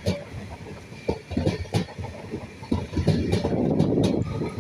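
Class 745 electric multiple unit running through the station, a steady low rumble with the wheels knocking over the rail joints, growing louder over the second half.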